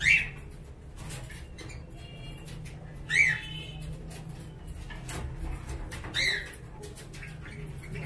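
Caged birds calling: one sharp, short call rising and falling in pitch, repeated three times about three seconds apart, with faint chirping between, over a steady low hum.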